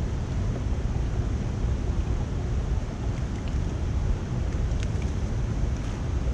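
Water rushing steadily through a culvert drain, a continuous low rush with a few faint clicks.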